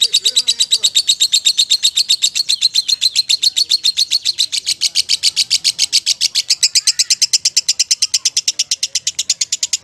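Lovebird calling in one long, unbroken chatter: a fast, even series of high chirps, about nine a second.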